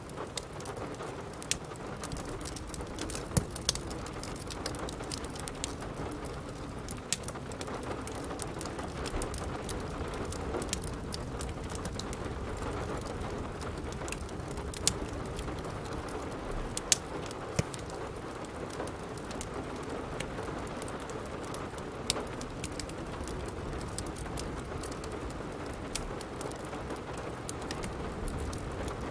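Steady rain falling, with a crackling wood fire over it: scattered sharp snaps and pops throughout, a few louder ones standing out.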